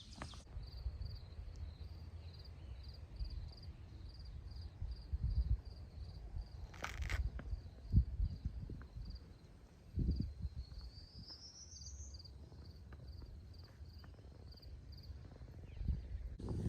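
An insect chirping steadily, about two or three short high chirps a second, over a low rumble with scattered heavier thumps of footsteps on the trail. A brief rising high call about two-thirds of the way through.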